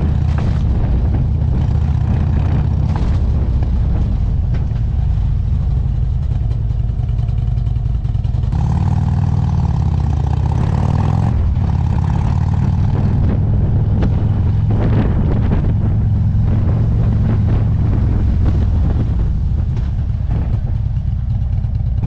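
Motorcycle engine running steadily under way. A higher engine note is heard for about three seconds near the middle.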